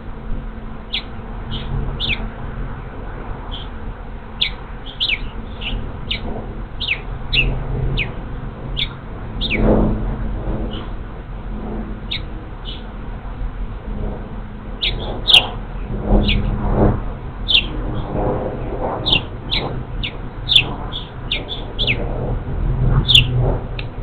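A bird chirping over and over, short sharp calls that drop quickly in pitch, over the low steady hum of a honey bee swarm flying in to a hive.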